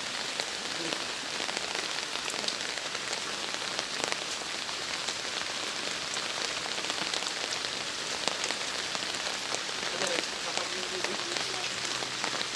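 Steady rain falling on a surface, a continuous hiss dotted with many separate drop hits.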